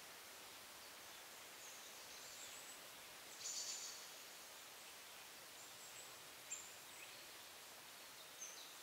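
Faint, short, high-pitched small-bird chirps, a few scattered calls with a brief cluster about three and a half seconds in, over a steady outdoor hiss.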